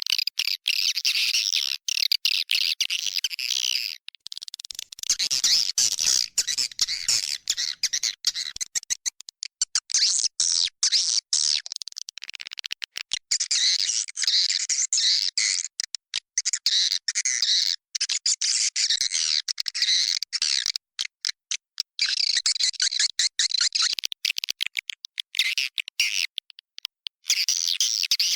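Swiftlets twittering in a nesting house: a dense, rapid stream of high chirps from many birds, easing off briefly a few times. It is a swiftlet-house calling sound, the kind played to lure swiftlets in to roost and nest.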